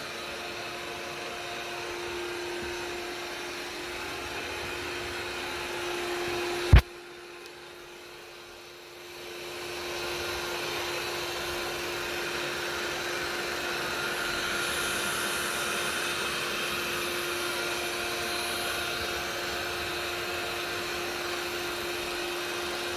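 A steady machine hum from a small motor, with one steady tone through it. About seven seconds in comes a single sharp, loud click; the hum drops away and then builds back up a couple of seconds later.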